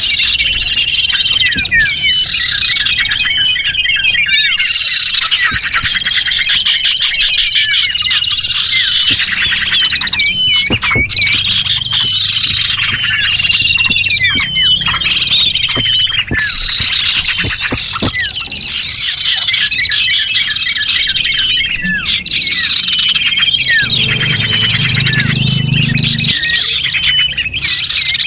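Dense chorus of small songbirds chirping and twittering without a break, with thin high whistled notes repeating among rapid trills: a small-bird lure (pikat) call recording.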